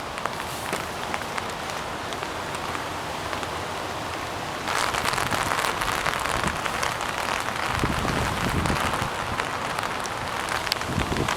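Rain falling during a thunderstorm, a steady hiss with scattered drop ticks that turns heavier and louder about halfway through. A brief low rumble comes about two-thirds of the way in.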